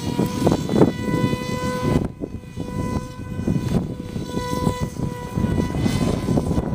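Small electric RC plane's motor and 6x4 propeller whining at a steady pitch in flight, with strong wind buffeting the microphone.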